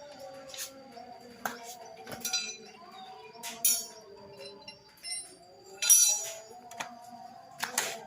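Irregular metallic clinks and short scrapes of tools on metal, about half a dozen, the loudest about three and a half and six seconds in, over a faint wavering background.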